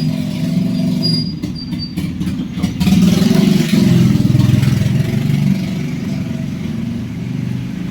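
Suzuki motorcycle engine running, getting louder for about two and a half seconds from about three seconds in, then settling back.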